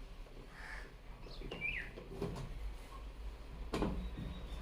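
Faint bird calls, including a short falling chirp, with one sharp knock about three and a half seconds in.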